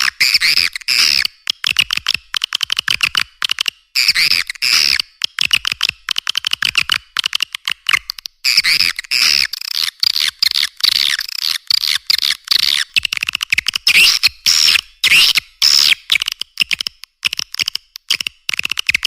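Edible-nest swiftlet calls: rapid, dense chittering twitters in quick runs separated by short gaps, with almost nothing below the high chatter. This is a swiftlet-house lure recording (suara panggil), played to draw swiftlets in to roost and nest.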